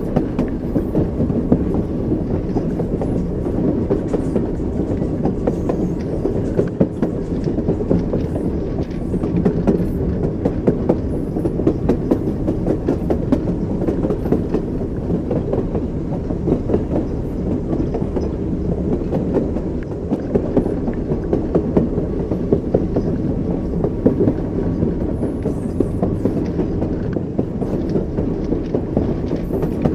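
Train running on the rails: a steady low rumble with the clickety-clack of the wheels knocking over rail joints.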